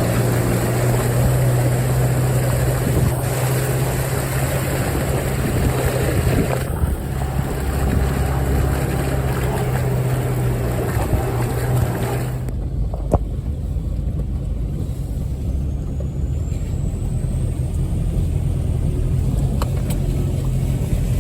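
Can-Am side-by-side's engine running steadily as it wades through deep floodwater, with water rushing and splashing around the vehicle. The splashing cuts off suddenly about twelve seconds in, leaving the engine running on.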